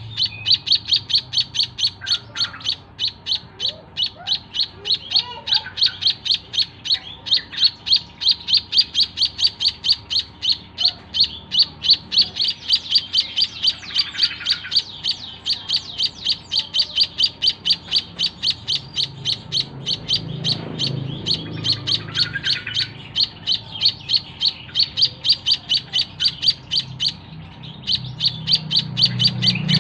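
Young white-headed munia (emprit kaji) chirping rapidly and without pause, short high calls about three or four a second: the chattering begging call of a hand-fed chick.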